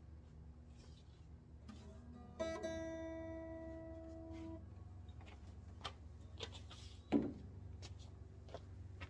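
A guitar strummed once a couple of seconds in, its chord ringing out for about two seconds, among light knocks and clicks of handling. A louder thump follows later.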